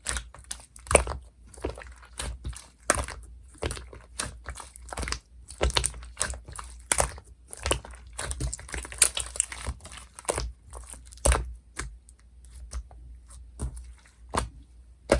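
Firm, bouncy clear blue slime being squeezed and pressed by hand, giving an irregular run of sharp clicks and pops, several a second.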